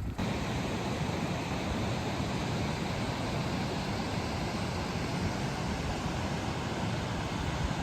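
Steady rush of falling water, an even hiss-and-roar with no breaks, cutting in suddenly right at the start.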